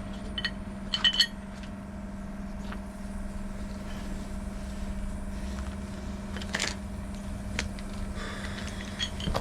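An engine running steadily with a constant low hum. Sharp metallic clinks of metal on metal come about half a second and a second in, with a few fainter knocks later.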